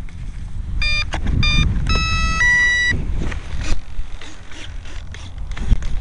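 Wind buffeting the microphone with a steady low rumble. About a second in, a run of electronic beeps: two short beeps, then two longer tones ending on a steady higher one. These are the start-up beeps of the electric RC plane's speed controller as its battery is connected.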